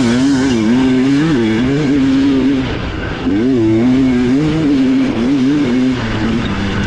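Dirt bike engine idling high and revving in repeated short throttle blips while waiting at the start line.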